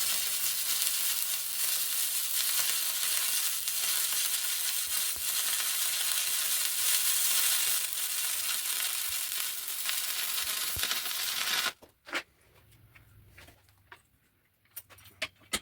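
Stick (arc) welder burning a stainless steel rod: a steady, loud crackling hiss that cuts off abruptly about twelve seconds in, followed by a few sharp clicks and taps.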